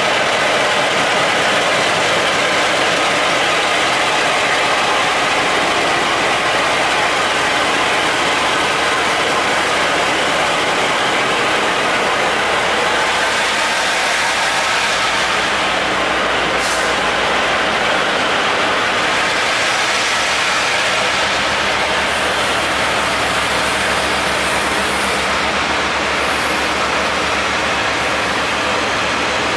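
Diesel-hauled passenger train moving past along the platform, with a steady rolling roar from the blue coaches' wheels and running gear. A low steady hum grows stronger about two-thirds of the way through.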